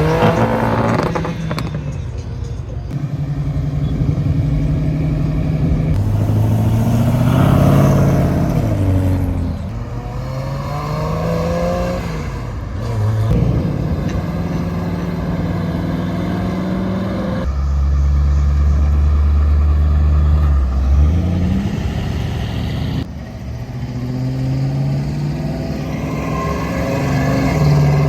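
Muscle-car engines revving hard, their pitch rising and falling, with the sound changing abruptly every few seconds from one car to the next.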